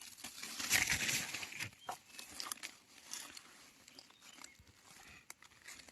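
Rustling and crackling of dry leaves and twigs in forest litter, loudest in the first second and a half, then fading into scattered small snaps and clicks.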